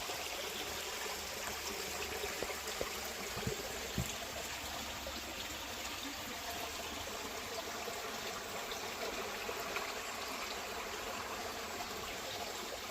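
Water running steadily, an even rushing with no change, from the river or spring water beside the stone well.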